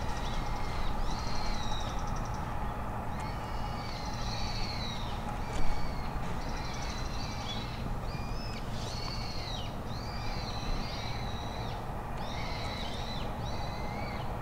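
Birds calling over and over, a short high-pitched call about once a second, over a steady low background hum. A single brief bump sounds about six seconds in.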